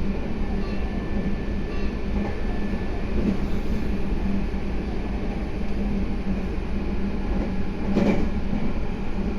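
Meitetsu 3150 series electric train running, heard from inside the front car: a steady rumble of wheels on rail with a constant low hum, and a single sharp knock about eight seconds in.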